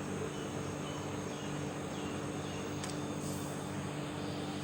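Steady background hum and hiss of a small room, with a faint click about three seconds in.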